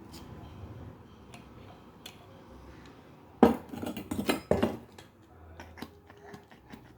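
Metal parts and tools clinking against each other: scattered light clicks, then a louder rattling clatter for about a second and a half, beginning about three and a half seconds in.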